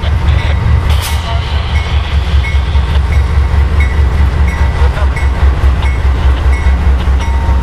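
CSX freight train rolling past: a steady, pulsing low rumble of the cars, with repeated clicks of the wheels over rail joints and one sharper click about a second in.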